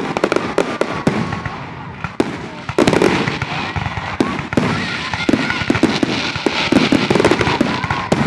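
Fireworks display: a rapid barrage of bangs and crackling, with heavier booms a couple of seconds in and near-continuous crackle after that.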